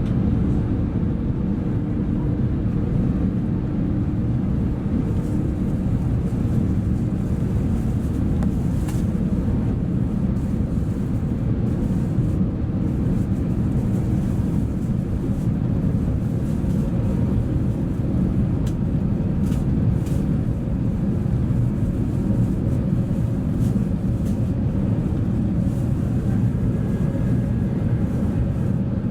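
Steady low rumble of an Airbus A380 airliner heard inside the passenger cabin: engine and airflow noise holding an even level throughout.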